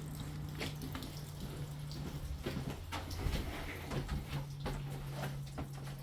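Water running from an open tap as the house plumbing drains down after the supply is shut off, with a steady low hum and scattered light knocks.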